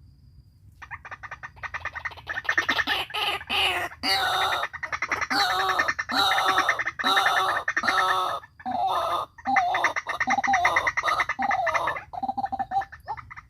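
White-breasted waterhen (ruak-ruak) calling: a fast run of repeated croaking notes that begins about a second in, grows loud, breaks off briefly twice, and tapers near the end.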